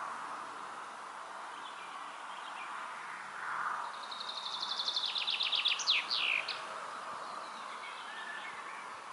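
A songbird sings one phrase, a fast trill of short, even notes ending in a few louder notes that sweep downward, over a steady background hiss.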